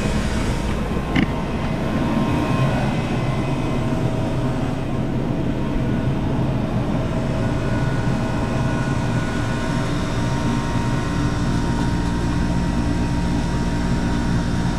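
Hoshizaki ice machine running steadily in its freeze cycle, its newly replaced compressor and fan giving an even hum, with a single click about a second in.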